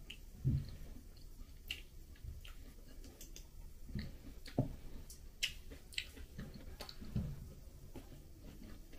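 A person eating with a fork, chewing quietly, with scattered faint clicks and mouth smacks.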